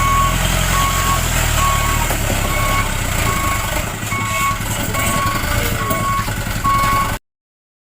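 Dump truck's reversing alarm beeping steadily, about five beeps every four seconds, over the low rumble of its diesel engine; both cut off suddenly near the end.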